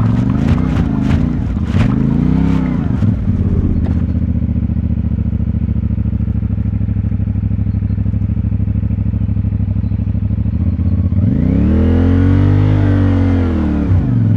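CFMoto 450MT's parallel-twin engine running at a steady low speed, with a couple of short throttle blips in the first few seconds. About eleven seconds in, the revs rise and fall back in a longer pull.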